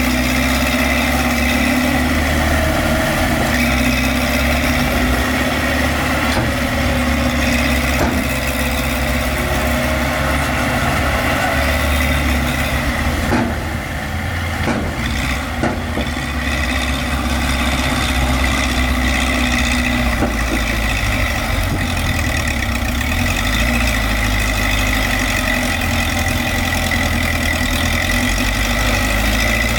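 Heavy diesel engines of dump trucks and a bulldozer running steadily. The level dips briefly about halfway through, with a few sharp knocks.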